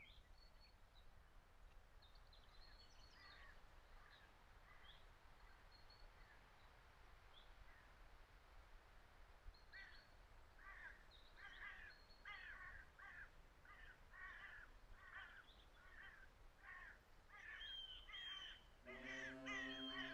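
Faint bird calls: a few scattered calls at first, then a steady run of repeated calls at about two a second through the middle. A sustained musical chord comes in near the end.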